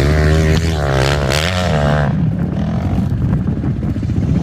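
A small motorcycle engine running, its pitch holding, dipping and rising again over the first two seconds, then settling into a rougher, lower running.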